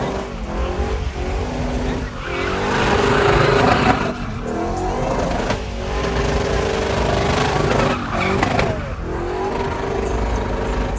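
A vehicle engine revving over a loud, continuous din, its pitch rising and falling several times.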